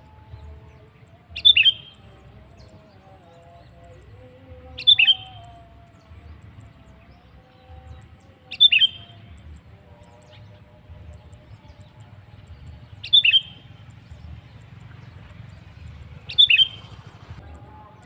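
A bird call repeated five times, about every three to four seconds: each a short, sharp, high note that falls away in pitch. Fainter, softer birdsong runs underneath.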